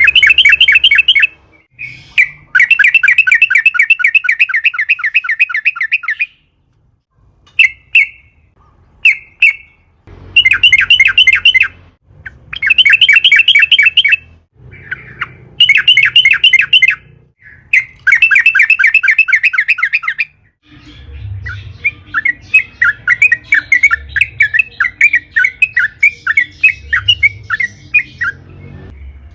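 Yellow-vented bulbul singing loud, long rolling phrases of rapid chattering notes, each run lasting one to four seconds with short breaks between. From about two-thirds of the way through, the notes come more loosely and spaced apart, over a low rumble.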